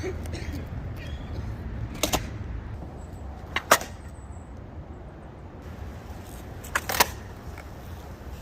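Skateboard with Ace AF1 Hollow trucks rolling over pavement with a steady low rumble, broken by sharp clacks, three times, mostly in quick pairs.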